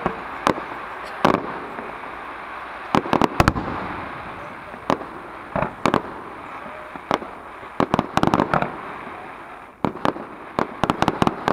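Aerial firework shells bursting in an irregular series of sharp bangs, several coming in quick clusters.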